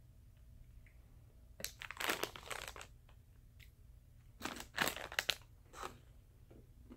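Crunching and crinkling of Famous Amos cookies being eaten from their snack package, in two bouts of crackly bursts: one about a second and a half in, the other about four and a half seconds in.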